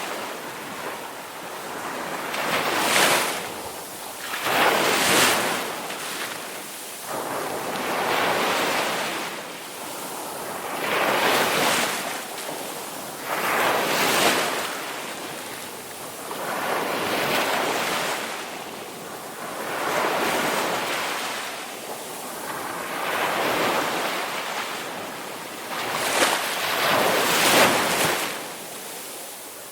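Ocean waves breaking and washing on a shore, a new wave swelling in and fading away every two to three seconds.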